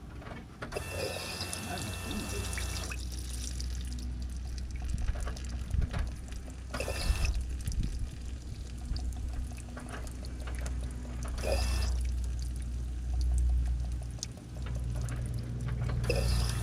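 Water-contaminated gasoline pouring and splashing out of a fuel line disconnected ahead of the fuel filter, pushed out by the running fuel pump. A steady low hum runs underneath, with several brief louder hissing spells.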